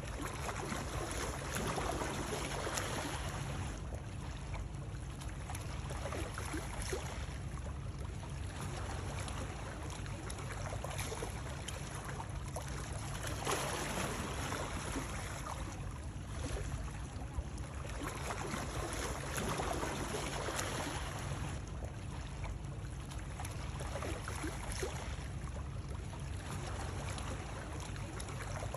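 Water running and splashing without pause, over a steady low rumble, with the sound swelling and easing every few seconds.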